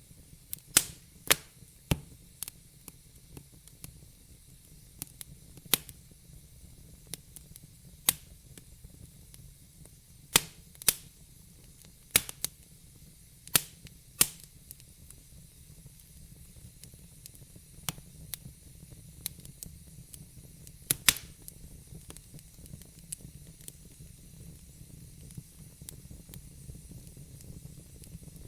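Wood fire in a fireplace crackling: sharp, irregular pops over a soft low rumble and hiss. The pops thin out after about twenty seconds.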